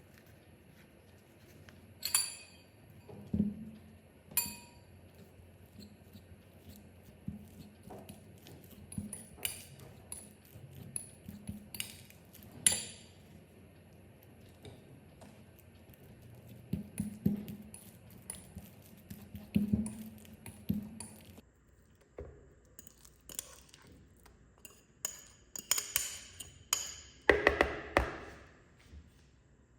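Kitchen dishes and utensils clinking and knocking in scattered strikes, some ringing briefly like glass or ceramic, over a steady background hum that cuts off about two-thirds of the way through. A louder burst of clattering comes near the end.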